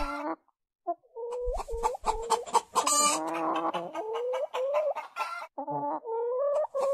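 A bird making many short, repeated pitched calls, after a brief pause near the start.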